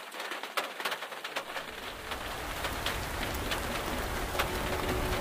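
Rain falling on a vehicle's roof and windows, heard from inside. At first separate drops tap sharply over a light hiss; about a second and a half in, a denser, steady downpour with a low rumble builds and grows louder.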